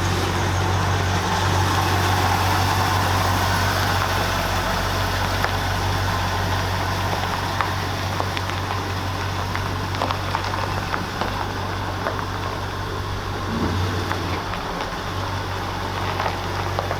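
1974 Ford F100's 390 V8 running smoothly with a steady, deep hum. The hum eases off briefly about three-quarters of the way through, then comes back.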